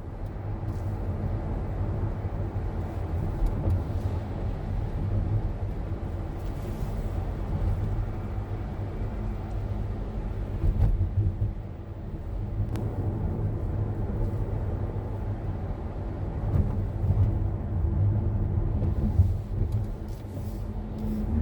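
Car on the move: a steady low rumble of engine and tyres on the road, with a few brief louder moments.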